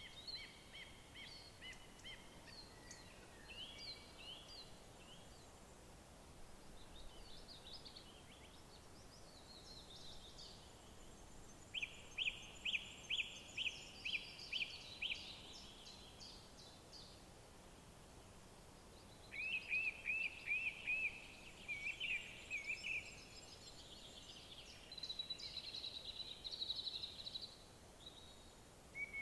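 Several songbirds singing in a forest over a faint steady background hiss. Clear runs of quick repeated notes, about three a second, stand out near the middle and again about two-thirds of the way through.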